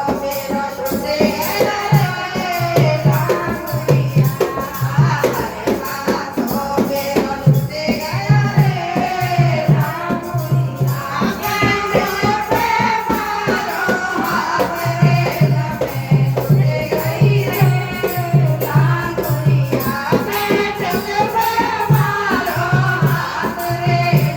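A Braj languriya folk song: singing over a steady drum beat and jingling percussion.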